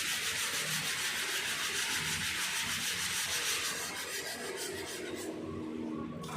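Body filler on a car panel being sanded, a steady rasping scrub of fine repeated strokes that eases off and grows fainter after about four seconds.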